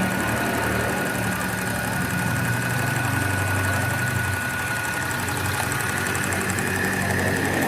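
Portable sewing machine's small electric motor running steadily with a constant high whine, freshly serviced with its armature cleaned and new carbon brushes fitted.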